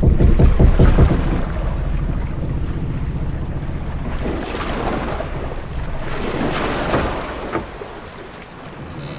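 Ship-at-sea ambience: waves washing against a ship's hull with wind, a deep rumble strongest in the first second or so, then slower swells of surf that ease off near the end.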